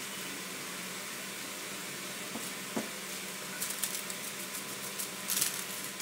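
Water spinach stir-fry sizzling in a wok: a steady hiss, with scattered crackles and pops from about three and a half seconds in.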